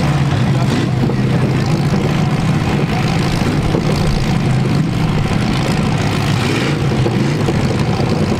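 V8 full-size demolition derby car engines running steadily, a low, loud drone whose pitch wavers slightly.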